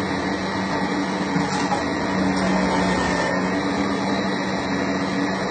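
A small electric motor running with a steady hum and a constant low drone, unchanging throughout.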